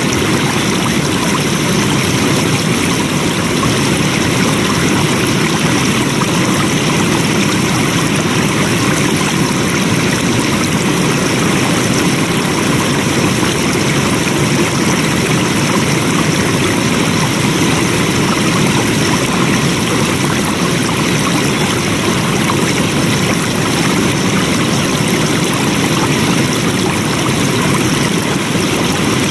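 Flowing water: a stream running steadily, a continuous even rush with no breaks or changes.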